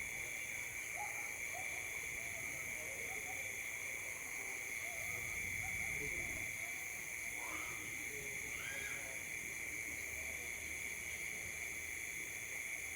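Night insect chorus: a steady, high-pitched chirring that runs without a break, with faint scattered calls beneath it.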